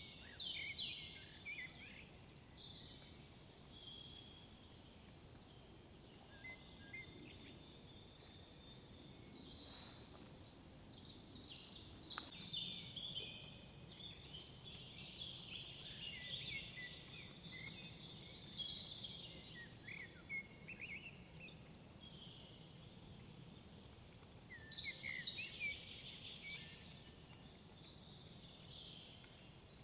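Several songbirds singing and calling at once, overlapping phrases of whistles and high trills that come in bursts every few seconds, over a faint low background rumble.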